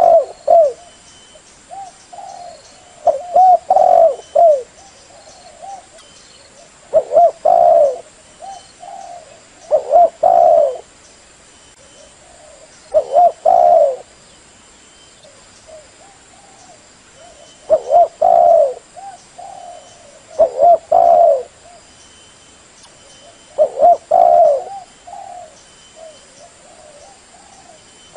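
Spotted dove (chim cu gáy) cooing, a decoy bird's call used to lure wild doves. Short cooing phrases repeat every three to four seconds, with one longer pause about midway.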